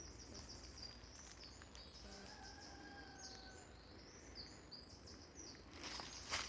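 Faint birdsong: many small birds chirping in quick high notes. Near the end come crunching footsteps on the forest floor.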